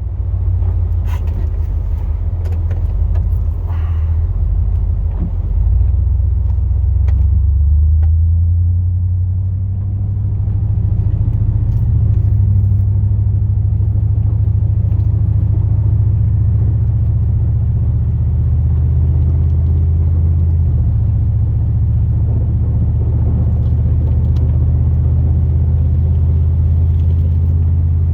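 A 2002 Chevrolet Silverado's 8.1L big-block V8 running as the plow truck drives: a steady, loud low rumble. A few faint clicks in the first several seconds.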